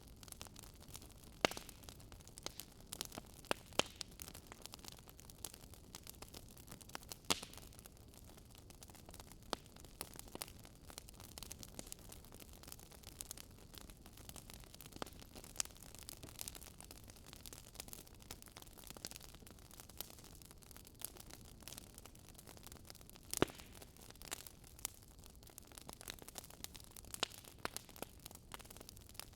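Wood fire crackling: a steady soft hiss with irregular sharp pops and snaps, a few of them louder.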